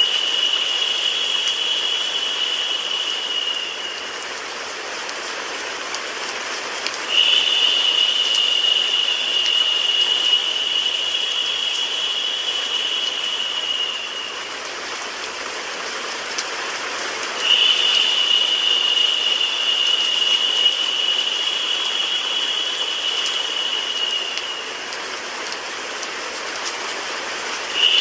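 Steady rain sound mixed with white noise, an even hiss. A higher, narrower hiss cuts in sharply three times, about every ten seconds, and each time fades out after some seven seconds.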